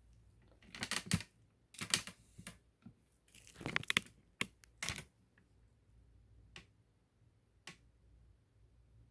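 A run of short rustling, crinkling noises over the first few seconds, then two single clicks a second apart.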